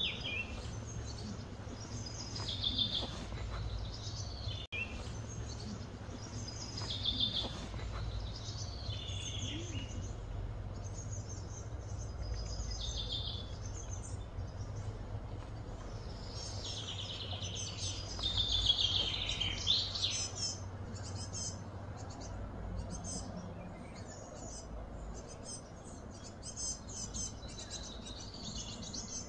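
Small birds singing, with short chirping phrases that repeat every second or two, several of them falling in pitch, and a busier stretch about two thirds of the way in. A steady low rumble runs underneath.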